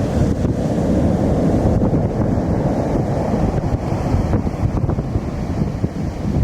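Heavy surf breaking at high tide, under strong wind buffeting the microphone with a steady low rumble.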